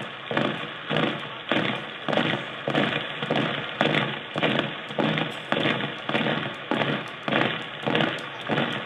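A steady rhythmic thumping, about two heavy beats a second, each beat with a short decaying tail, keeping an even pace throughout.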